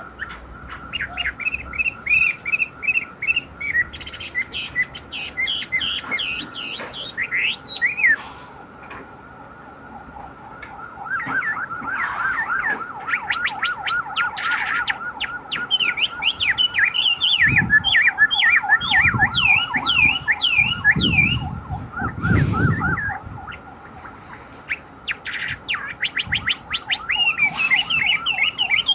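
Chinese hwamei singing a long, varied song of fast repeated whistled phrases, with short pauses between runs.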